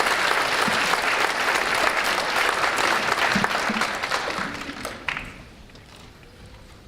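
Audience applauding in a concert hall, the clapping dying away over the last couple of seconds.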